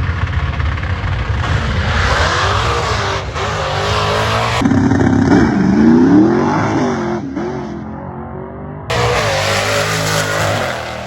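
Car engine revving loudly, its pitch rising and falling. The sound changes abruptly twice, about four and a half and nine seconds in.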